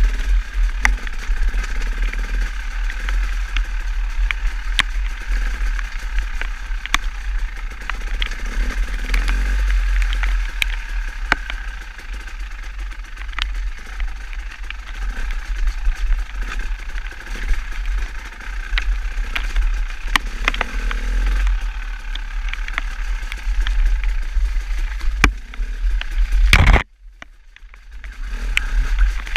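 Steady wind rumble and road noise from riding, with scattered clicks and rattles throughout; the sound drops out suddenly for about a second near the end.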